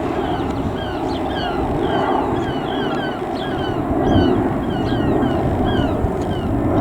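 Many small birds chirping, with short falling chirps repeating several times a second, over a steady low rumble of wind or distant engine noise.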